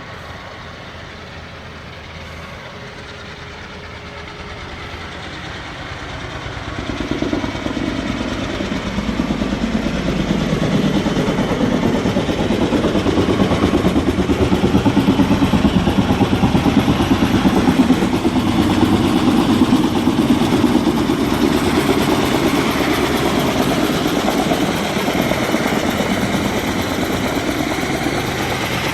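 Helicopter flying back in, its rotor and engine noise building from a few seconds in to a loud, fast, even rotor beat that holds through the rest, easing slightly near the end.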